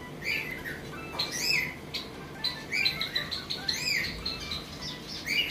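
Aviary birds calling: a short chirp that rises and falls in pitch, repeated roughly once a second, with softer chirping between.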